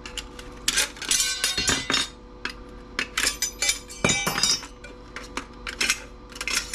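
Small metal parts and hand tools clinking and clattering against a circuit board as its metal shield covers are pried off: a string of sharp clicks and knocks, some with a brief metallic ring.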